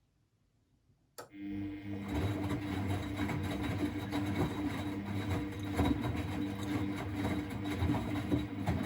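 Miele Novotronic W921 washing machine starting up suddenly about a second in, then running steadily with a low motor hum.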